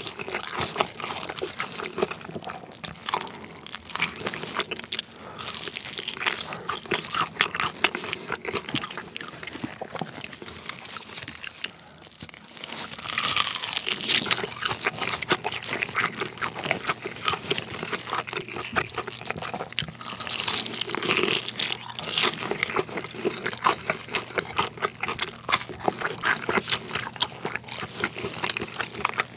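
Close-miked chewing of crispy Korean fried chicken, with crackling bites into the fried coating. The crunching grows louder and denser about halfway through, as a fresh bite is taken.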